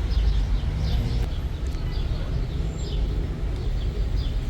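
Small birds chirping over and over, short falling chirps a few times a second, over a steady low rumble.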